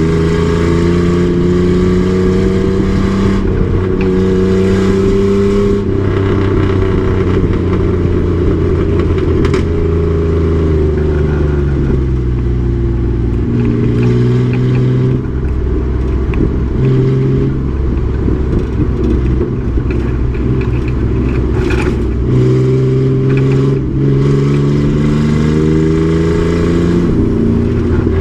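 Race truck's engine running hard on track: the revs climb in the opening seconds, fall away through the middle as the driver comes off the throttle, hold low for several seconds, then climb again under acceleration near the end.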